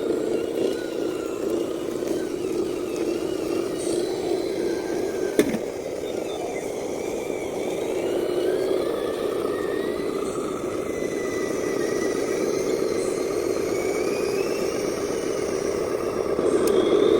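Radio-controlled dump truck running on a dirt track: a steady drive-train whir with a faint whine that rises and falls in pitch as it drives, and a single sharp click about five seconds in.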